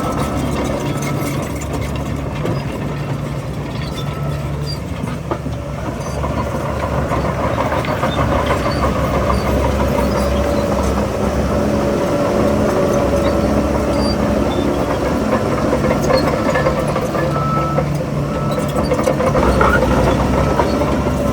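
Heavy diesel earthmoving machinery running steadily, its engine note strengthening and easing as it works, with scattered small metallic clicks.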